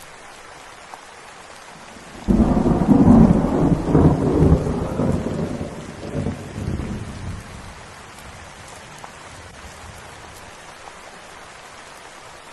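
Steady rain, with a clap of thunder about two seconds in that rumbles low and fades out over about five seconds.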